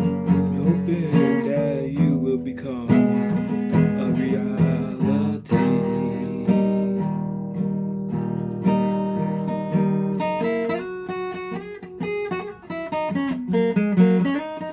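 A guitar being played: strummed chords with sharp attacks, moving into quicker picked single notes over the last few seconds.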